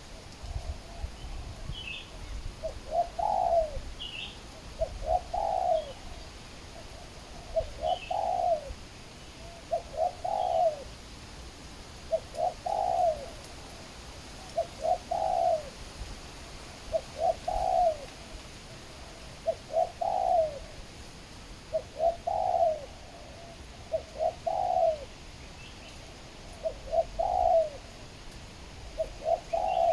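Spotted dove cooing: a short phrase of several notes, repeated evenly about every two and a half seconds, around a dozen times. A small bird chirps faintly a few times in the first half.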